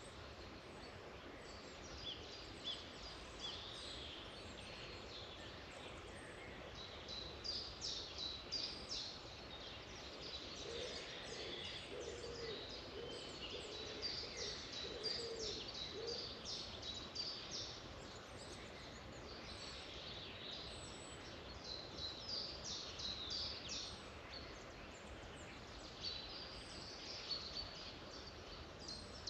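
Several songbirds singing over a steady background hiss, with repeated short high chirps and trills, and a lower warbling call for a few seconds near the middle.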